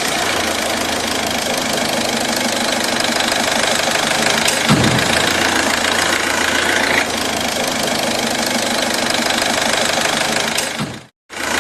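Assembled mini engine running steadily, with one brief thump about halfway through; the sound cuts out for a moment near the end, then carries on.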